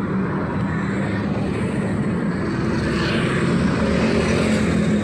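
Street traffic: motor vehicles running past on the road, a steady engine hum and tyre noise that grows a little louder as a vehicle passes close about three seconds in.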